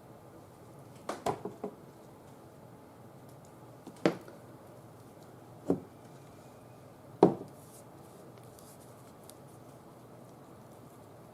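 Sharp clicks and knocks from craft materials and tools being handled on a work table. A quick run of four comes about a second in, then three single knocks follow a second or two apart, over a faint steady hum.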